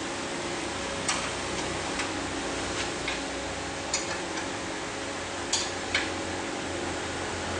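A few sharp, irregularly spaced clicks and taps over a steady background hum and hiss.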